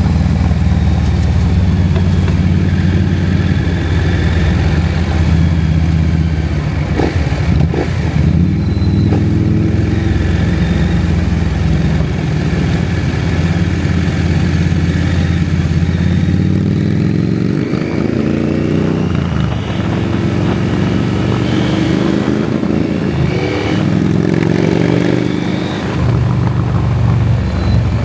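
KTM 790 Adventure's parallel-twin engine running on the move, steady at first. In the second half it revs up several times, with the pitch rising in a series of sweeps broken by short dips.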